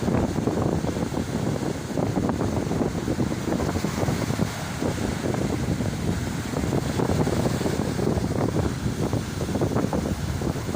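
Strong, gusty wind buffeting the microphone, over the wash of sea surf.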